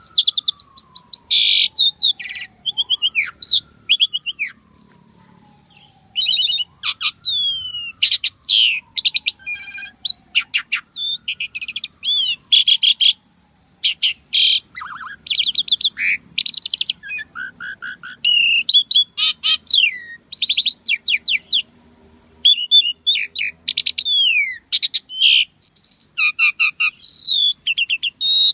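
Pied starling (jalak suren) singing continuously: a fast, varied stream of whistles, squeaks, chirps and clicks, the full mixed song that bird keepers call gacor with isian. In the first ten seconds a fainter tone rises quickly and slides slowly down, about four times.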